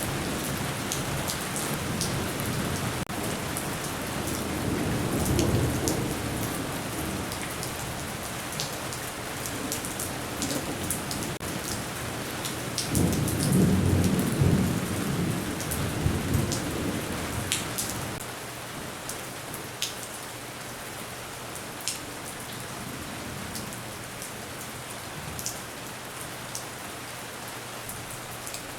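Rain falling steadily with sharp drips throughout, while thunder rumbles twice: a swell a few seconds in and a louder, longer rumble around the middle. After that only the rain remains, a little quieter.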